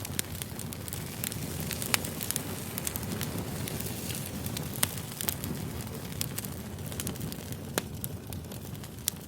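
Campfire burning: a steady low rumble of flames with scattered sharp crackles and pops from the burning wood, a few louder snaps standing out.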